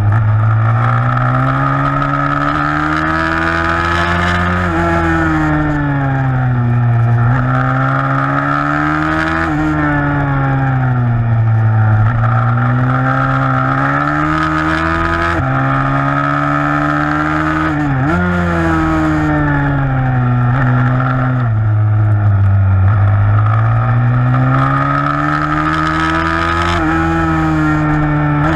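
A 160cc pitbike's single-cylinder four-stroke engine racing, revving up and down over and over. Its pitch climbs under acceleration, drops suddenly at gear changes, and falls away as the throttle is closed for corners.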